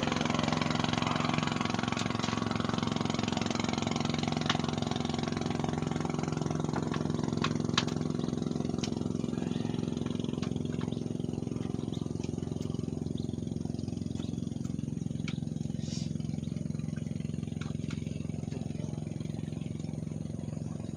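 An engine running steadily at a constant pitch, slowly growing fainter, with a few faint clicks over it.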